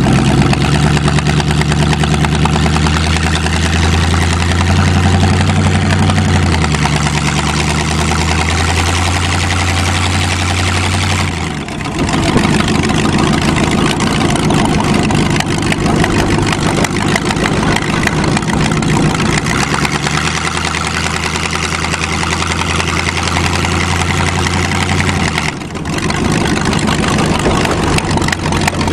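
The Cheviac's engine running under way on a test drive after a carburettor tune-up, with a broad rush of road and wind noise over it. The engine note holds at one pitch for a few seconds at a time and shifts in steps, dipping briefly about twelve seconds in and again near the end.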